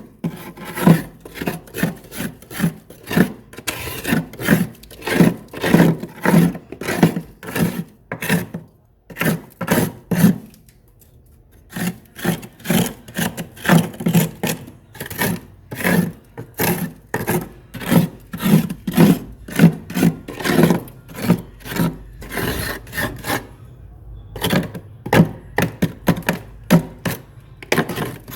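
Close-miked chewing of refrozen freezer frost: rapid gritty crunches, about two to three a second, with a pause of a few seconds roughly a third of the way in.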